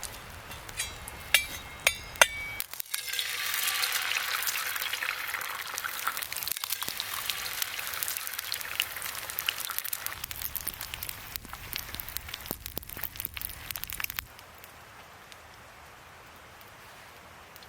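Food sizzling in a hot frying pan. A few light clicks come first, then the sizzle starts suddenly about three seconds in, loudest at first, slowly dying down, and cuts off abruptly near the end.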